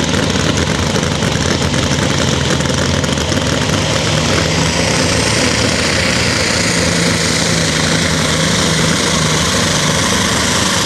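John Deere Super/Pro Stock pulling tractor's turbocharged diesel engine running loud and steady under load while pulling the sled, with little change in engine speed. It is not reaching the RPM expected of it, probably because it is in its lowest gear.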